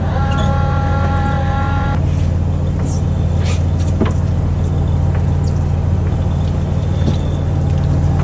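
Fishing boat's engine running steadily with a deep hum while the net is hauled, a steady higher whine sounding over it for about the first two seconds, and a few sharp clinks a few seconds in and near the end.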